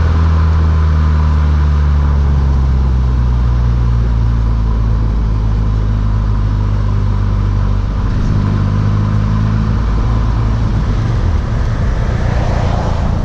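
Mk6 Volkswagen GTI's turbocharged four-cylinder engine through a Beluga aftermarket exhaust, running at fairly steady revs with a low, deep note. The pitch shifts about eight seconds in and again near the end.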